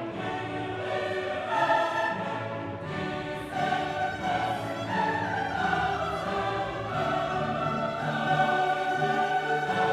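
Classical music: a choir singing long held notes with an orchestra.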